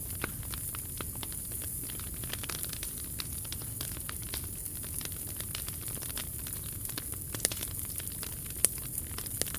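Wood fire burning in a POMOLY T-Brick Ultra fire stand, crackling with many small irregular pops over a steady low rumble. Two louder pops come near the end.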